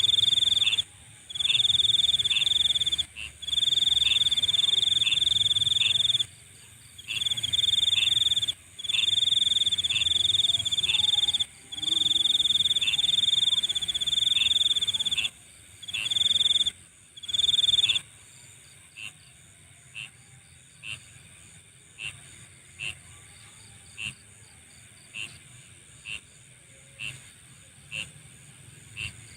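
Night insect chorus. A loud, high trill comes in long runs of one to three seconds with short breaks, stops about eighteen seconds in, and gives way to short chirps about once a second, all over a steady, higher-pitched background chorus.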